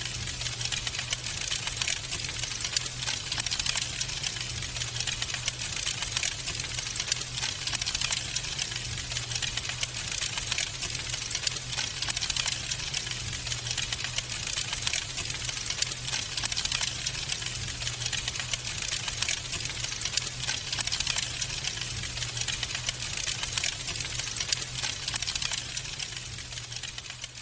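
Wood fire crackling in a fireplace: a dense, continuous run of small pops and snaps with frequent sharper cracks, over a steady low hum.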